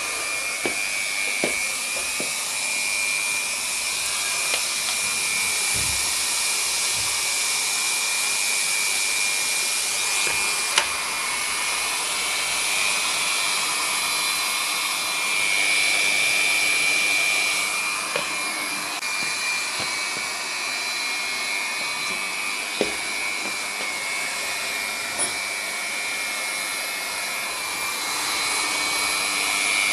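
Hot-air PVC banner welding machine running, its Leister heat gun blowing a steady hiss with a high whine. A few short clicks sound over it.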